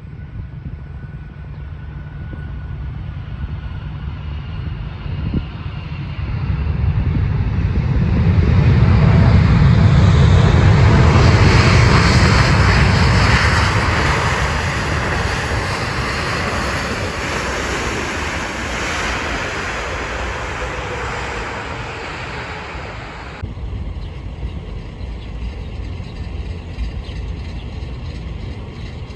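Jet airliner passing on its landing approach: a rushing engine roar with a faint whine swells to its loudest about ten seconds in, then slowly fades. About 23 seconds in the hiss cuts off abruptly, leaving a low rumble.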